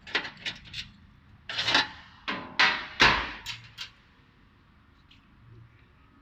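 A run of short scraping and rubbing sounds as conveyor parts are handled and shifted during disassembly, loudest in the middle, then quieting for the last couple of seconds.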